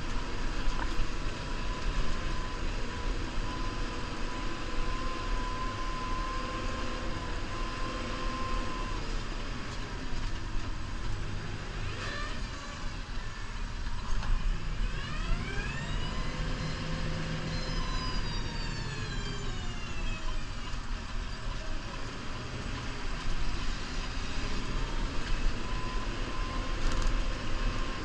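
New Holland Powerstar 75 tractor's diesel engine running steadily under load while plowing snow, with a whine that rises and then falls off about halfway through.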